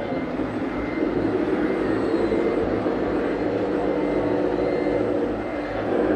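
A steady motor running sound with a regular low pulsing beneath it, growing a little louder about a second in.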